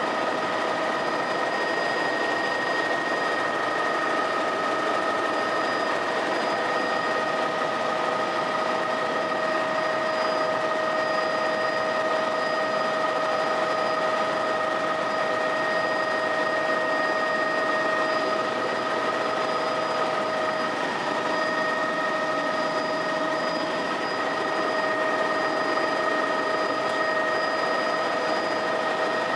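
Helicopter cabin noise in flight: a constant rush of engine and rotor noise with a steady, high-pitched whine from the turbine and gearbox running through it.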